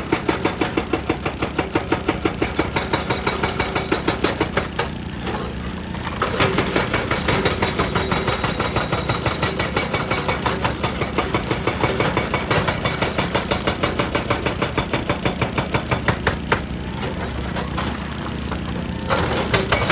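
Hydraulic rock breaker on an excavator hammering rock, about four blows a second, over the excavator's diesel engine. The blows ease off briefly about five seconds in and again near the end, leaving mostly the engine.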